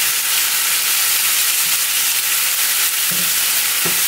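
Shredded cabbage sizzling steadily in hot sesame oil in a frying pan on a high flame, stirred with a spatula, with a few brief scrapes.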